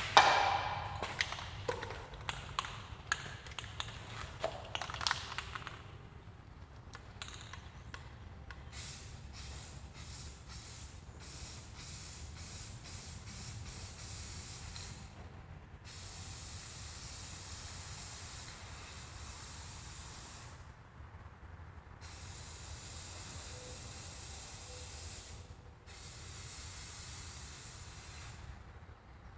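Aerosol spray can of satin black paint spraying a coat onto a guitar body: a few seconds of clicks and knocks of handling, then short hissing bursts, then long steady passes of spray with brief pauses between them.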